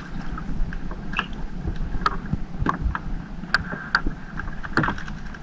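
Small fishing boat's engine running steadily, with scattered sharp clicks and knocks as a crab gill net is hauled aboard.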